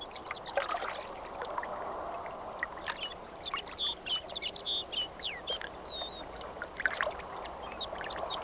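Many short, high bird peeps and chirps in quick succession over a steady wash of water.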